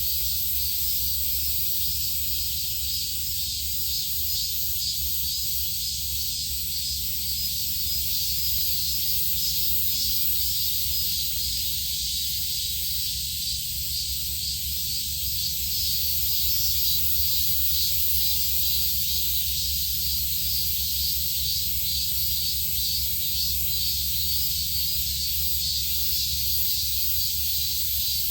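Steady high-pitched insect chorus with a faint fine pulsing, over a steady low hum.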